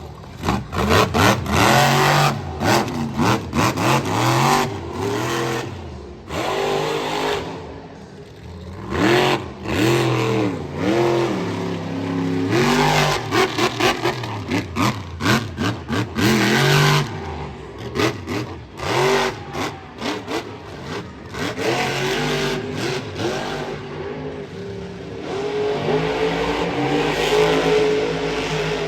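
Monster truck engine revving hard, its pitch rising and falling again and again with the throttle, with many sharp bangs in the first half.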